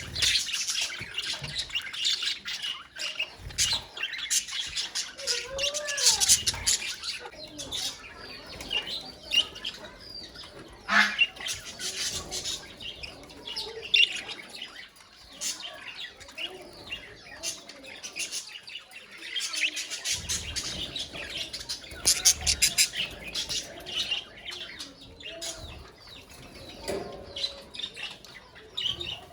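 A colony of budgerigars chattering, chirping and warbling, many birds at once, swelling into louder crowded bursts several times.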